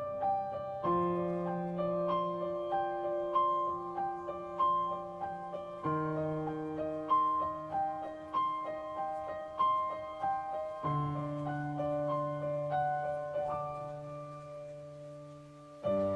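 Slow, gentle solo piano music: a repeating pattern of single notes over held low chords that change about every five seconds, with a fade-out before a new chord near the end.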